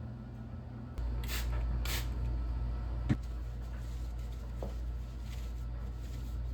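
A steady low hum that gets louder about a second in, with two brief rustling swishes and a single sharp knock a little after.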